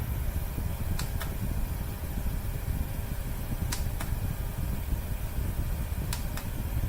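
Small USB desk air cooler's fan running steadily, heard close up as a low whooshing rumble. Three pairs of faint light clicks come through it.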